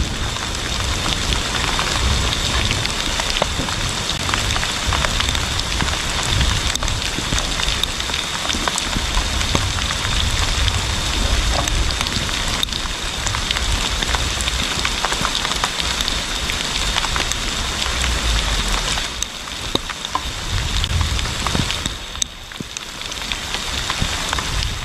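Steady rain falling, a dense hiss made up of many separate drop hits, easing for a moment near the end.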